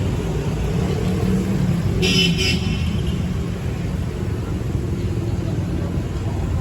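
City street traffic running steadily, with a brief high-pitched car horn toot about two seconds in.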